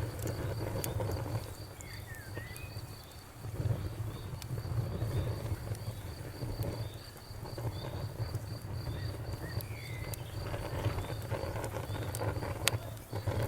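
Wood fire crackling, with scattered sharp pops (one louder near the end) over a low, fluctuating rumble of the flames. A steady high, evenly pulsing chirp runs in the background.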